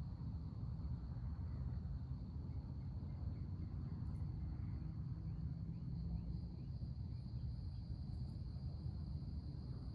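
Insects, crickets by the sound of them, trilling in a steady high drone over a low outdoor rumble, with a row of faint short chirps through the middle.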